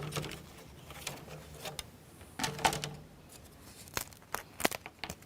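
Small sharp clicks and light knocks of thin laser-cut plywood model parts being pressed out of their board and handled, scattered and irregular, with a cluster of crisp snaps about four seconds in.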